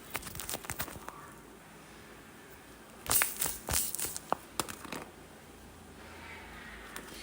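Paper crinkling and crackling, with a cluster of louder short bursts about three to five seconds in, as a handmade paper squishy is handled.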